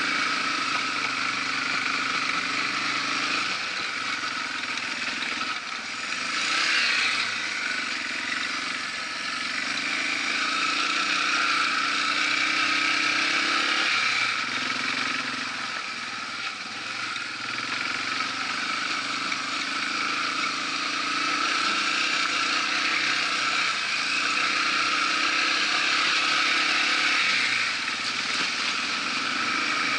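Yamaha TW200's single-cylinder four-stroke engine running under way on a gravel forest road, its pitch and loudness rising and falling as the throttle opens and eases off, with a brief louder rush about seven seconds in.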